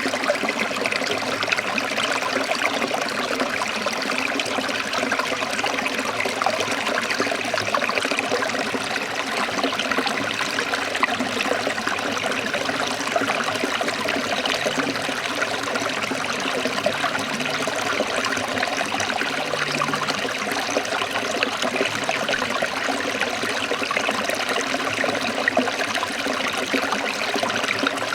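Stream water trickling steadily, an even rushing babble with no break or change.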